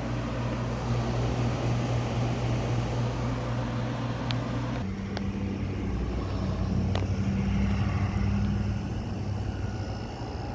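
Window air conditioners running with a steady hum. About halfway through the hum changes in pitch to the low, quiet drone of the Amana Cool Zone's fan and rotary compressor. A few faint clicks are heard.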